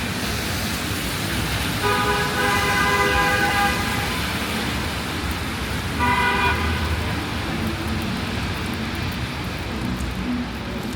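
Vehicle horn honking twice, a long blast of about two seconds and then a short one, over steady city traffic noise on rain-wet streets.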